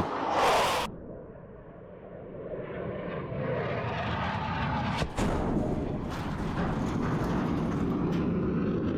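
Aircraft engine noise that builds up steadily after a loud sound cuts off about a second in, with a single sharp crack about five seconds in.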